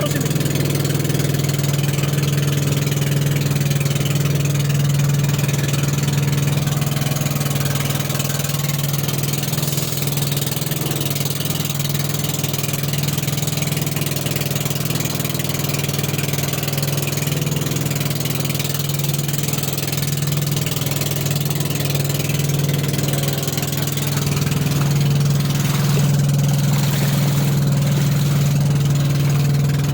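Boat engine running steadily with a low drone and a steady hiss over it, getting a little louder in the last few seconds.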